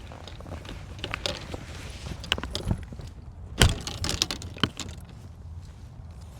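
Golf equipment clinking and rattling as it is handled, with one loud sharp crack about three and a half seconds in.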